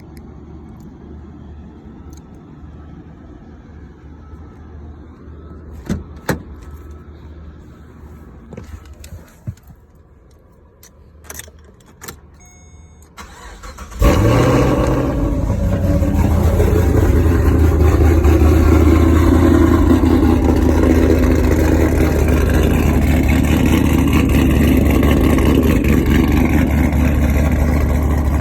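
Chevrolet Caprice's L77 6.0-litre V8, fitted with a Brian Tooley Racing stage 4 camshaft, cold-starting: a few clicks, then about halfway through the engine catches abruptly and settles into a loud, steady idle.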